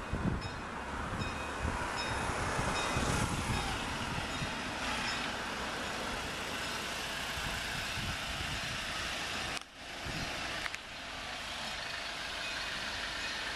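Steady engine and road-traffic noise heard from inside a waiting car. A faint high beep repeats about twice a second in the first couple of seconds.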